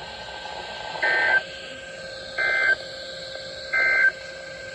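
NOAA Weather Radio SAME digital tones: three short warbling data bursts, about a second and a half apart, over steady radio hiss. The short bursts match the end-of-message code that closes a warning broadcast.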